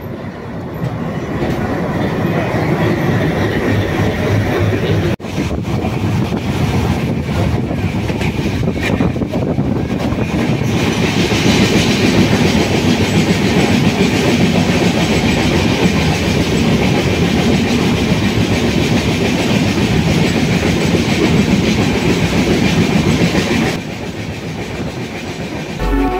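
A moving passenger train heard from the open carriage doorway: a steady rumble and rattle of the coach and its wheels running on the rails. About eleven seconds in it grows louder, with more hiss, and it eases off again a couple of seconds before the end.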